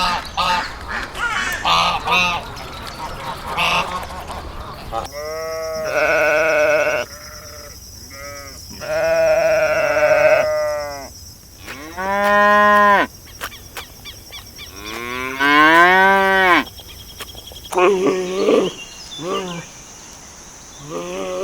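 Cattle mooing: four long calls, each rising and falling in pitch. Before them there is a stretch of rapid short animal calls, and after them more short calls.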